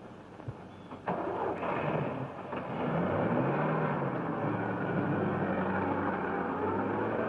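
Car engine starting up about a second in and running, its pitch rising and wavering as it drives.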